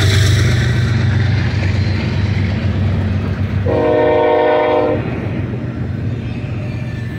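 Double-stack intermodal well cars rolling past on the main line with a steady low rumble that eases a little toward the end. Just past halfway a locomotive horn sounds one steady blast of a little over a second.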